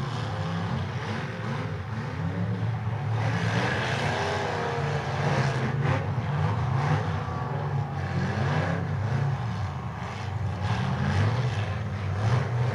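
Several bonestock demolition derby cars' engines running together, revving up and down as the cars push against each other, with a sharp knock about six seconds in.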